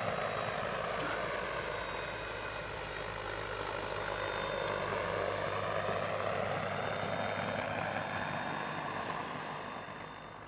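Electric ultralight trike with a 20 kW ROTEX REX30 electric motor, its propeller running with a steady whoosh over a faint high thin whine; the sound fades about a second before the end.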